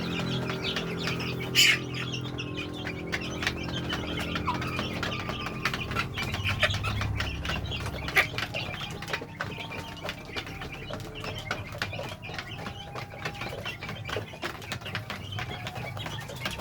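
A group of domestic chicks peeping continuously, many short overlapping chirps, with a low steady hum under them for the first several seconds and a couple of sharp clicks.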